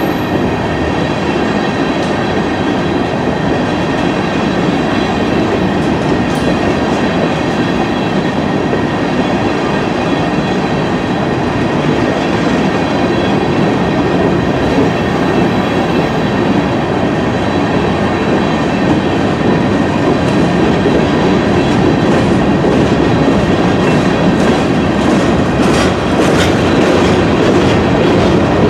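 Freight train's open-top hopper cars rolling past: a steady loud rumble of steel wheels on rail, with clickety-clack over the rail joints and faint steady ringing tones above it. A run of sharp clicks comes near the end.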